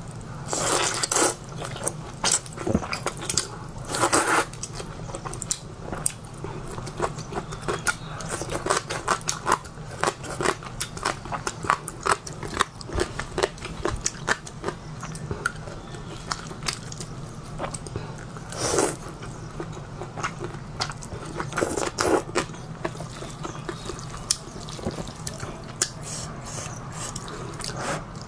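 A person eating luosifen (river-snail rice noodles) close to the microphone: a steady run of chewing and biting clicks, broken by a few longer, louder bursts.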